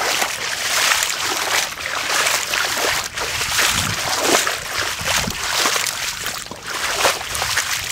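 Footsteps wading through a few inches of standing floodwater on saturated lawn, splashing and sloshing with each step.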